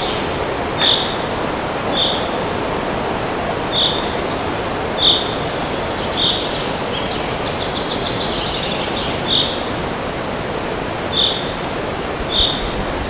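Steady wind noise through forest trees, with a bird repeating a short high chirp roughly every one to two seconds and a quick trill of notes near the middle.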